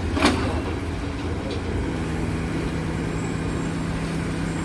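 Heavy diesel engines running with a steady low rumble. A short knock sounds just after the start, and a steady engine hum sets in about two seconds in.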